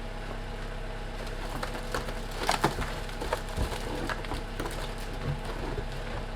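Ice being knocked off a car with a rubber mallet: a few scattered sharp knocks and cracks, the loudest pair about two and a half seconds in, over a steady low hum.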